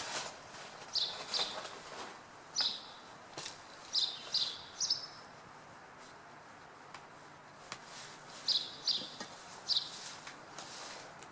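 Small birds chirping: short high chirps, often in quick pairs, coming in bunches with a pause of about three seconds in the middle, over a faint steady background hiss.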